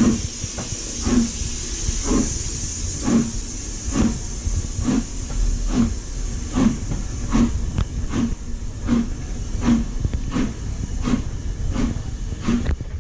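Steam locomotive pulling away, its exhaust beating in a steady rhythm of about one chuff a second that quickens gradually, over a steady hiss of steam that stops about eight seconds in.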